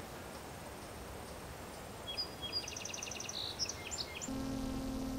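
A small songbird sings one short phrase of quick repeated high notes about two seconds in, over faint background hiss. A steady low hum comes in near the end.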